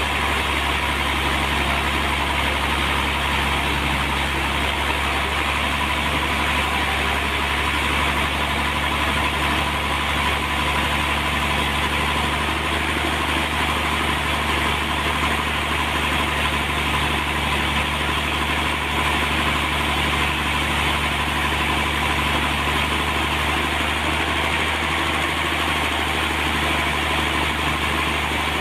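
Sawmill engine running steadily at an even pitch, without changing speed.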